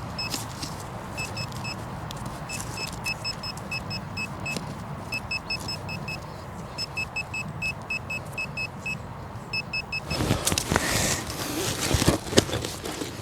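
Metal-detecting pinpointer beeping rapidly in short runs of identical high beeps, about four or five a second, as it is held over a buried target in the dug hole. About ten seconds in, louder scraping and rustling of soil and stones being dug through by hand takes over.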